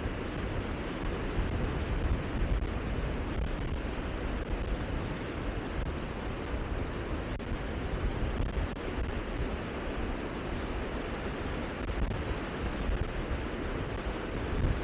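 Steady rushing wind noise with a heavy low rumble that rises and falls slightly, with no distinct events.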